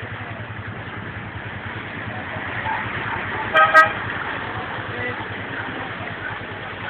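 A vehicle horn toots twice in quick short blasts about three and a half seconds in, over a steady background of noise and a low hum.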